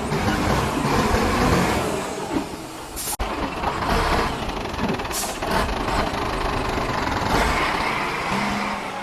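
A heavy diesel machine running steadily, with two short hisses about three and five seconds in.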